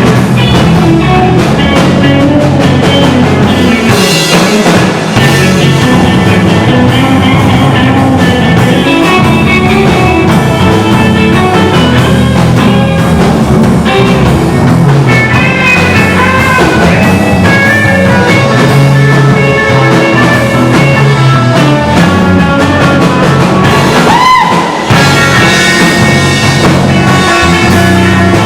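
Rock song played by a band, with electric guitar over bass and drums. A sliding note bends up and back down about three-quarters of the way through.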